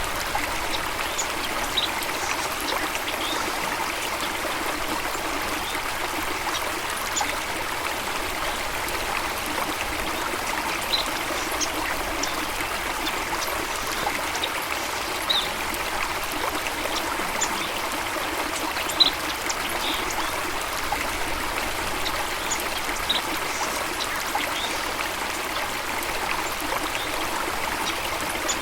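Stream water running steadily, an even rushing splash, with scattered brief high ticks over it.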